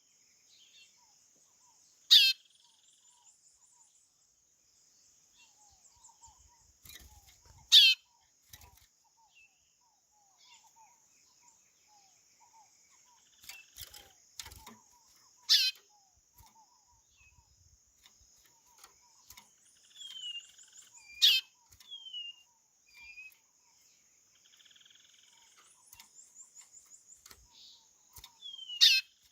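White-bellied seedeater (chorão) calling: five loud, very short notes sweeping sharply down in pitch, several seconds apart, with softer short falling whistles between them. A steady high-pitched hiss runs underneath.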